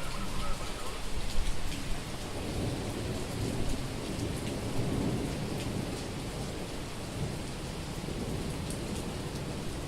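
Summer thunderstorm: heavy rain pouring steadily, with scattered close drips. A low roll of thunder swells a couple of seconds in and fades away.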